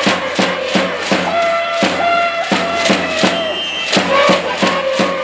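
A school cheering section in the stands chanting in unison to a steady beat struck about three times a second, the held notes changing pitch a few times.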